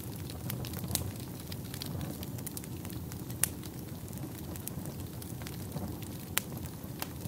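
Wood fire burning in a fireplace: a steady low rush of flames with constant small crackles and a few sharp, louder pops, the loudest about three and a half seconds in and again near six and a half seconds.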